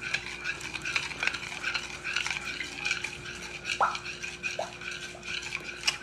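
A utensil stirring and scraping food in a pan, with many quick scrapes and clicks, over a steady hum.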